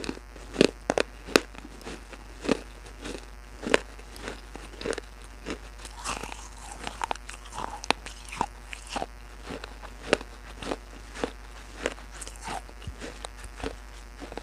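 Irregular crisp crunching and cracking, one or two sharp cracks a second with some faster runs, over a steady low hum.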